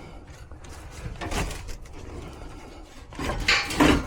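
Rubbing and scraping of hard objects being shifted and handled, with one short scrape about a second in and a louder double scrape near the end.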